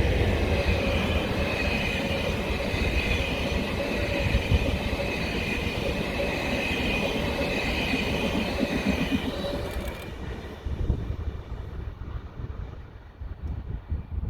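A train passing at close range: steady rolling noise with a high ringing tone over it. About ten seconds in the sound drops away sharply, leaving a low rumble of wind on the microphone.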